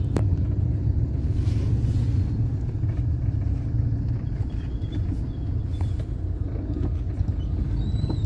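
Steady low rumble of road traffic in rush-hour congestion, with a few short clicks and a faint high tone near the end.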